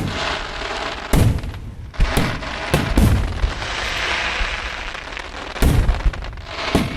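Aerial fireworks going off: a string of sharp booms from shells bursting, with a crackling hiss in the middle stretch and a quick cluster of bangs near the end.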